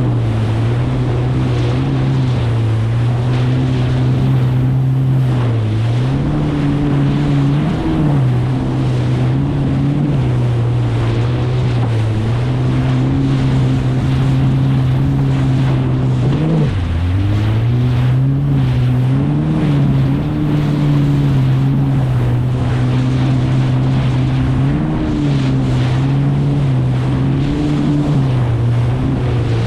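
Kawasaki STX 160X jet ski's four-stroke engine running at a steady cruising speed, with wind and water spray rushing past. The engine note dips and recovers a few times as it crosses chop, most sharply about halfway through.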